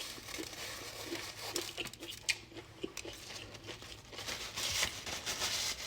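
Fried chicken being eaten: small crisp crackles and clicks of the breading as it is bitten and chewed, thickening into denser crackling near the end.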